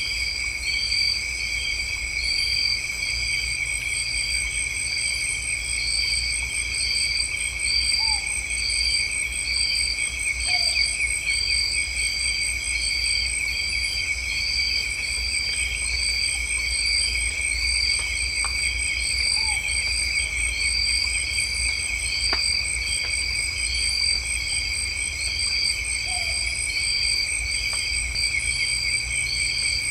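Chorus of insects, crickets or cicadas, droning steadily in several high, shrill tones, with one chirping about twice a second, starting abruptly. A few faint short bird calls sound now and then under it.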